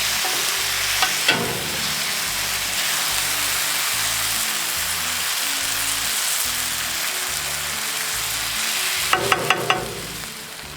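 Food frying in hot fat with a loud, steady sizzle. A few sharp knocks sound about a second in, and a quick run of four near the end, after which the sizzle falls away.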